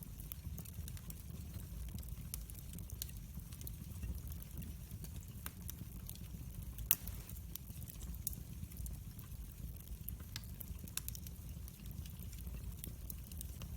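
Wood fire burning in a fireplace: a low steady rumble of the flames with irregular crackles and pops, the sharpest crack about halfway through.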